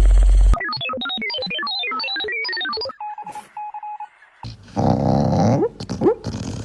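A quick electronic jingle of fast-stepping pure notes, then a few short steady beeps, followed by a noisier clip with two short rising whines.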